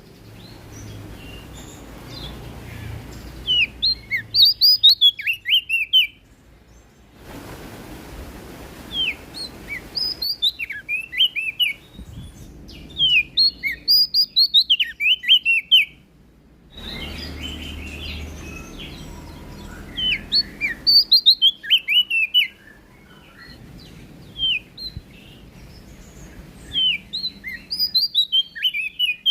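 Prenjak daun bird singing: bursts of quick, high chirps and trills, each run lasting a couple of seconds, repeated about five times with short pauses between.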